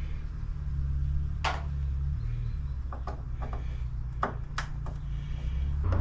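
Several sharp metallic clicks and knocks from work on the door hinges as the screws are taken out, over a steady low rumble.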